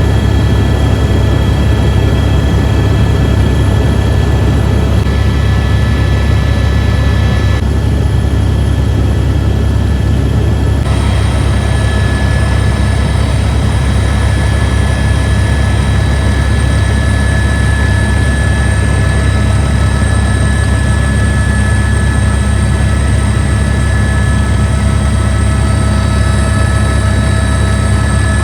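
Helicopter in flight: a loud, steady drone of rotor and turbine with a high whine over it, the whine shifting a few times in the first ten seconds or so.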